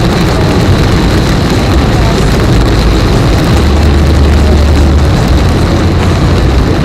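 Steady, loud road and engine noise heard inside a car cruising on a highway, with a heavy low rumble that swells briefly about halfway through.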